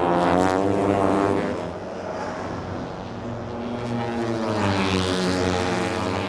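Moto3 racing motorcycles' 250cc single-cylinder four-stroke engines running at high revs, the pitch rising and falling as they accelerate and shift. Loudest in the first second and a half, easing off, then swelling again near the end.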